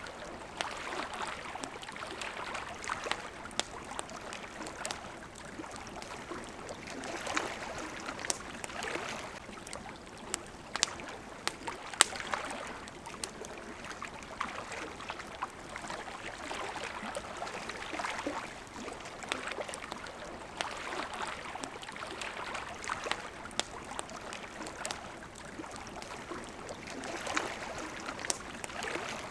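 Water lapping at the shore in gentle swells every couple of seconds, with a campfire crackling over it in scattered sharp pops, one louder pop about halfway through.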